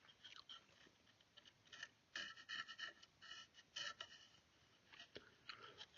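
Faint, short scratching strokes of a pencil marking a line, mostly in a cluster about two to four seconds in.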